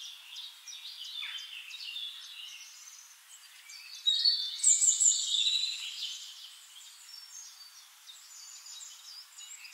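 Birds chirping and twittering over faint outdoor background noise, thin-sounding with the low end cut away. The chirping is busiest and loudest about four to six seconds in.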